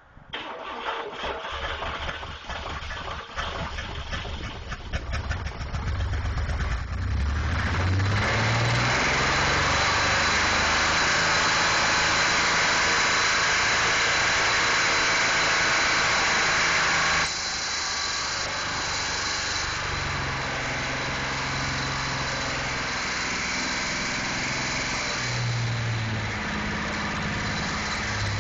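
Chevrolet S10 Blazer's 4.3L TBI V6 being cranked for several seconds, catching about seven seconds in and running at high revs, then dropping to a lower speed past halfway with the revs rising and falling. It is being run with no oil or coolant.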